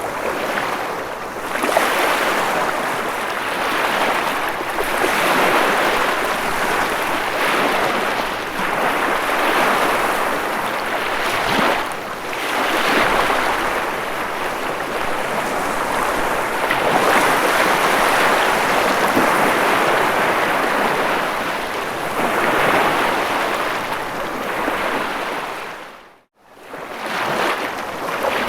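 Ocean waves surging and washing back in a steady surf noise that swells and eases every few seconds. Near the end the sound drops away abruptly for a moment and then comes back.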